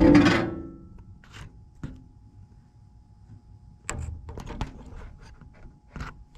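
Furnace parts being handled: a loud metallic clank that rings for about a second, then scattered clicks and knocks, with a cluster about four seconds in.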